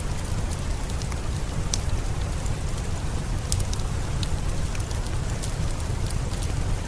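Steady rain with a deep low rumble underneath, and scattered sharp pops and crackles of a wood fire.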